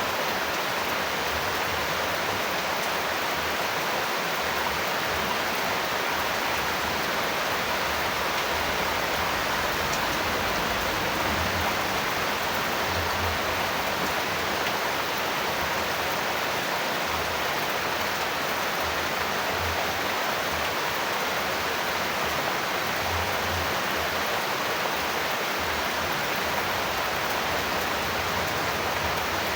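Steady heavy rain falling, a dense, even hiss that does not change.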